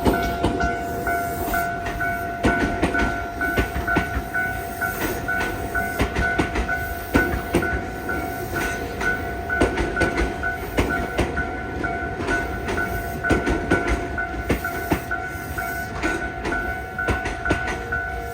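Electric train running slowly over depot track and points, its wheels clicking irregularly over rail joints, with a steady high tone sounding throughout.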